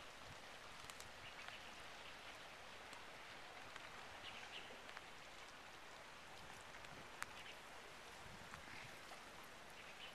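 Near silence: a faint steady hiss of background noise with a few scattered faint ticks, one sharper tick about seven seconds in.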